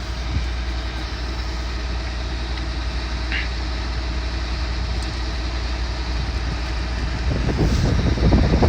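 Diesel engine of demolition machinery running steadily at idle. About seven seconds in, a rougher, louder rumble from wind on the microphone joins it.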